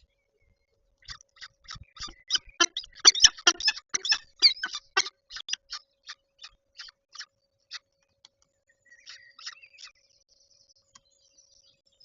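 A rapid series of short, sharp clicking chips from a peregrine falcon at the nest ledge, fast and loud at first, then slowing to single clicks, followed by a brief higher chatter near the end.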